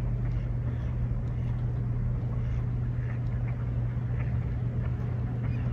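A steady, low motor hum holding one pitch, with faint short higher sounds scattered over it.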